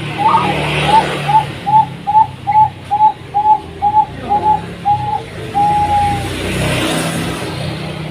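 Zebra dove (perkutut) cooing: a run of about ten short, evenly spaced notes, a little over two a second, ending in one longer held note. A low steady hum runs underneath.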